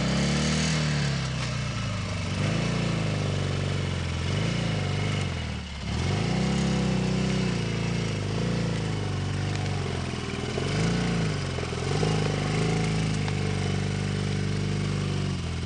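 Sidecar motorcycle engine running and revved up and down again and again, with a short dip about six seconds in, as the outfit is pushed through mud and brush.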